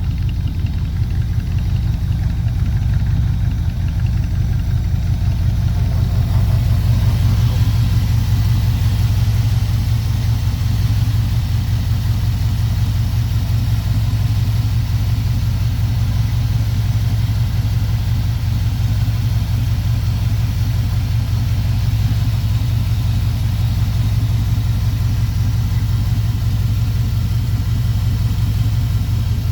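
1965 Chevrolet C10 pickup's engine idling steadily.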